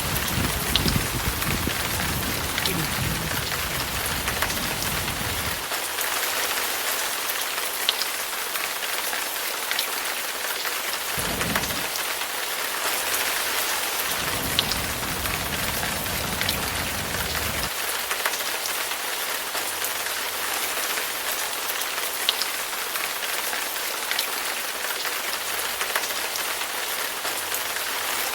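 Heavy rain falling steadily, with scattered sharp drops striking close by. Low thunder rumbles for the first five seconds or so, briefly again near the middle, and for a few seconds after that.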